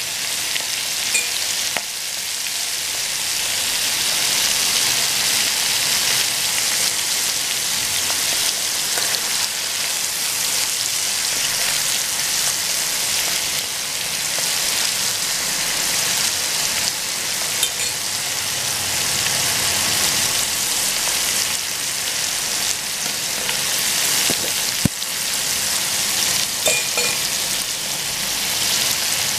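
Prawns deep-frying in hot oil in a pan, making a steady sizzle throughout, with an occasional sharp click, the clearest about 25 seconds in.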